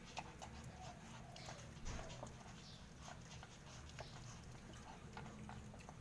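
Faint, soft dog whines with scattered small clicks and rustles from a Pomeranian whelping.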